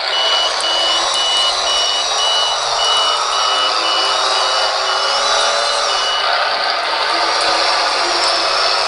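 Reverse-alarm beeping from the Benedini micro sound system in an RC Caterpillar D5 dozer, a little over two beeps a second, stopping about six seconds in. Under it runs the model's simulated diesel engine sound together with the whine of its drive motors.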